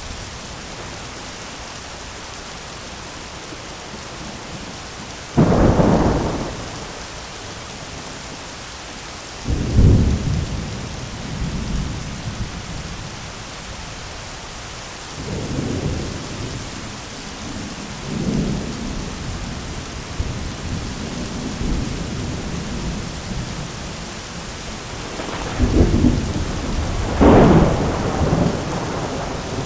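Thunderstorm: steady rain with repeated thunder. A sudden clap comes about five seconds in and another near ten seconds, softer rumbles follow in the middle, and the loudest, longest burst of thunder comes near the end.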